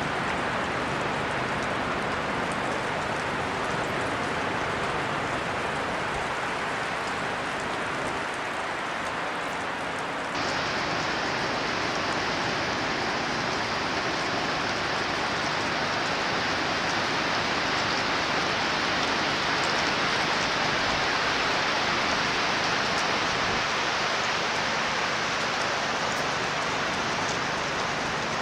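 Steady rushing noise of a wind and rain storm. About ten seconds in it changes abruptly, getting brighter and a little louder, then holds steady.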